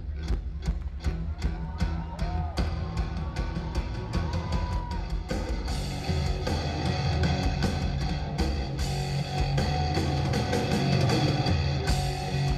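Live heavy-metal music from amplified, distorted cellos over a drum kit, with steady drum hits. The band grows fuller and louder about halfway through.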